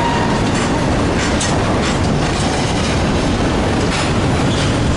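Freight train cars rolling past on the rails, wheels clacking irregularly over rail joints, with a faint wheel squeal now and then.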